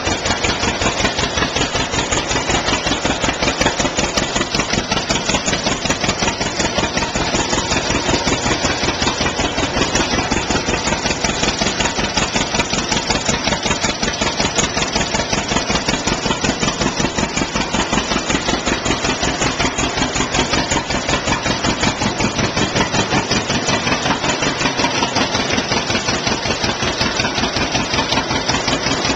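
1954 John Deere 60's two-cylinder engine idling shortly after a cold start, with an even, rapid popping exhaust beat that holds steady throughout.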